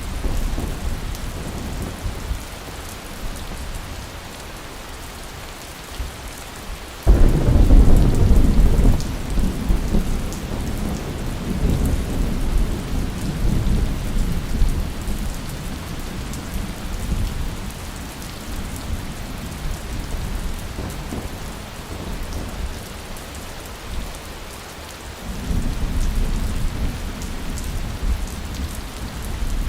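Steady rain with rolling thunder: a sudden loud crack and rumble about a quarter of the way in that dies away over several seconds, and a second, softer rumble near the end.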